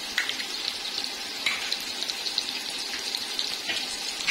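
Onion masala frying in oil in a cooking pot: a steady sizzle with scattered clicks of a spoon stirring it.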